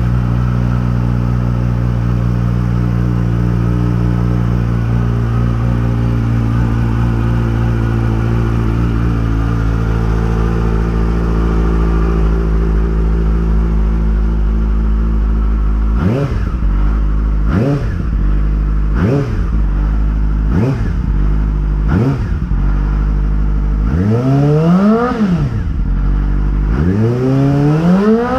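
2008 Yamaha R6's inline-four engine idling steadily, then blipped five times in quick succession, each rev shooting up and dropping straight back to idle, followed by two longer, higher revs near the end.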